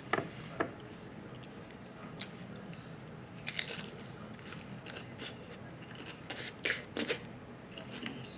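Close-up crunching and chewing of a toasted hard taco shell: scattered sharp crackles, bunched in a few clusters.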